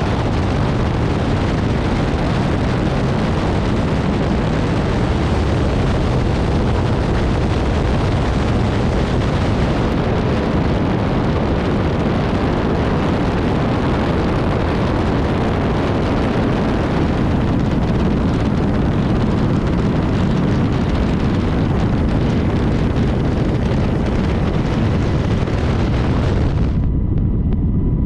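A loud, steady roar with a deep rumble and hiss. About 27 s in, the hiss cuts off suddenly, leaving a low rumble.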